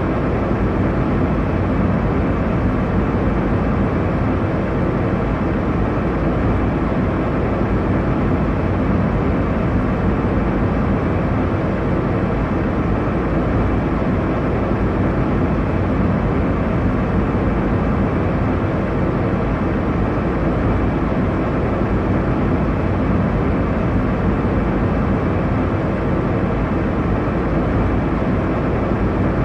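Airliner cabin noise in cruise: a steady, unbroken rumble and hiss of engine and airflow, strongest in the low end and dull at the top.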